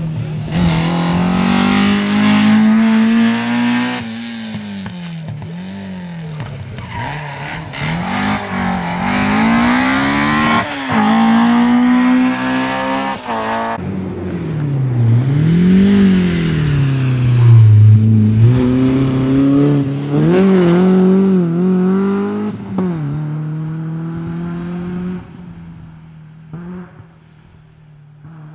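Rally car engine revving hard, its pitch climbing and dropping again and again as it changes gear and lifts off the throttle, with some tyre noise. The engine fades away over the last few seconds.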